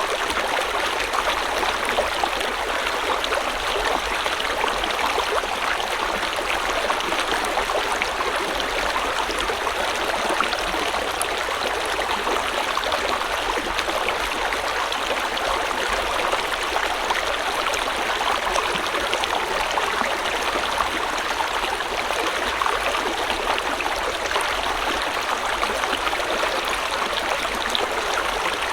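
River water flowing over stones: a steady, even rush of babbling water.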